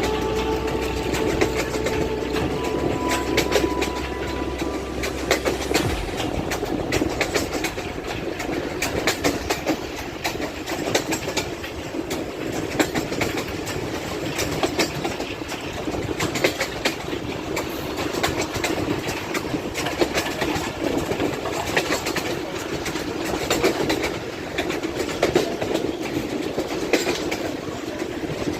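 Passenger train hauled by an HBU-20 diesel locomotive running on the rails: a dense, rapid clatter of wheels over rail joints. A low locomotive drone underlies the first few seconds and stops abruptly about six seconds in.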